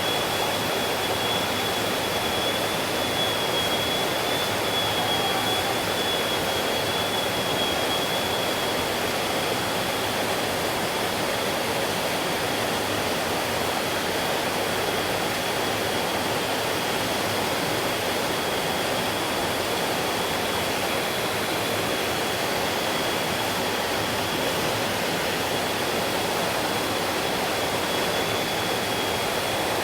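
Stream water flowing steadily, an even rushing noise with no breaks. A thin, steady high-pitched tone runs through it.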